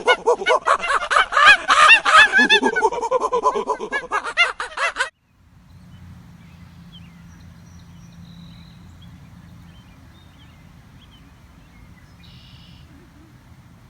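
A loud, dense chorus of many birds calling over one another with short, rising-and-falling cries, which cuts off abruptly about five seconds in. After that there is only a faint low outdoor rumble with a few scattered faint chirps.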